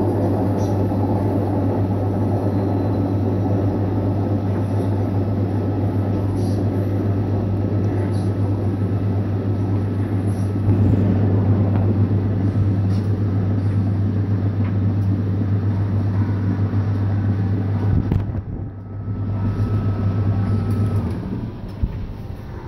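Bauknecht Super Eco 6412 washing machine on its spin cycle, a loud steady roar over a strong low hum, so loud it is almost like an aircraft. This is an abnormally loud spin noise, which the owner takes as a sign the machine is failing. The noise drops away briefly about 18 seconds in, picks up again, then falls off near the end.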